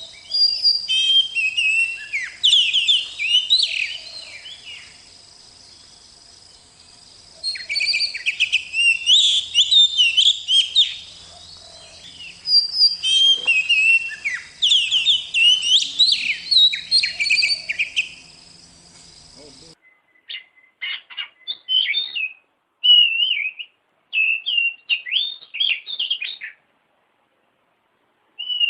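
Oriental magpie-robin (kacer) singing: bouts of fast, varied whistled phrases separated by short pauses. About two-thirds of the way in, the background hum and steady high tones cut out abruptly, and the song continues as shorter phrases with silent gaps between them.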